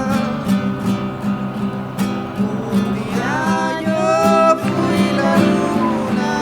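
Acoustic guitar music, plucked and strummed, with a melody line coming in about halfway through.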